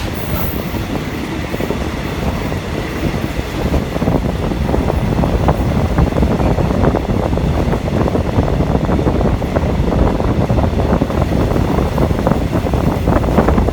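Passenger train running along the track: a steady rumble with dense rattling of the wheels and carriage.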